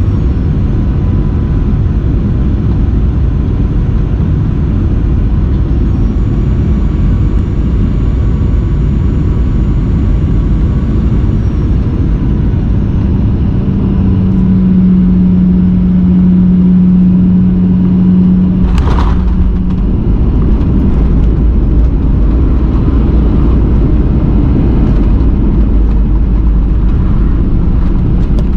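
Cabin noise of a Boeing 737 jet airliner in flight: a loud, steady roar of engines and airflow. A low hum holds for several seconds and ends with a short sharp sound around the middle, after which the deep rumble is stronger.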